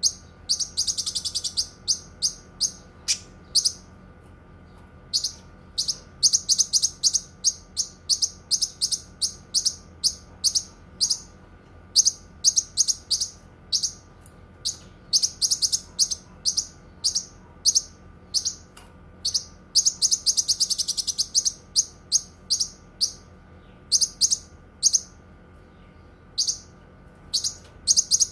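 Cucak kinoi singing: runs of short, sharp, high-pitched chirps repeated rapidly, broken by brief pauses, with a couple of denser trilled passages. A faint steady hum sits beneath.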